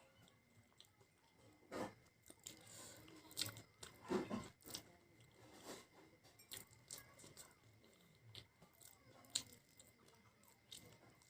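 Close-up chewing and crunching of fried potato snacks: irregular crisp bites and mouth sounds, the sharpest crunches about two, four and nine and a half seconds in, over a faint steady high tone.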